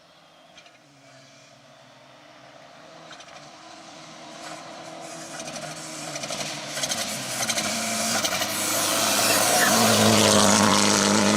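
Rally car approaching from a distance, its engine growing steadily louder until it is close by near the end, with sharp crackles along the way.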